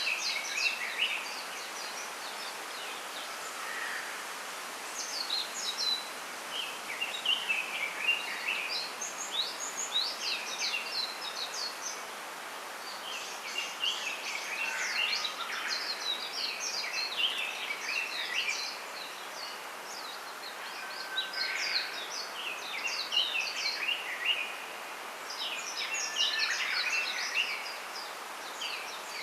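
Small songbirds chirping and singing in bouts of quick, high, falling notes, several phrases overlapping, over a steady background hiss.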